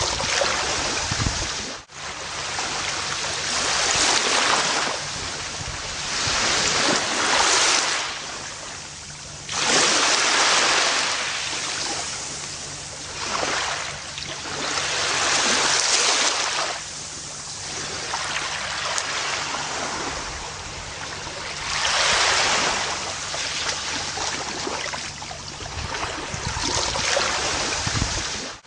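Gentle ocean waves washing onto a beach, a wave swelling and fading every four to six seconds. A very brief dropout cuts the sound about two seconds in.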